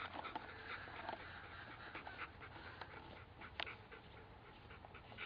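Bernese mountain dog panting softly, with scattered light clicks and a sharper click about three and a half seconds in.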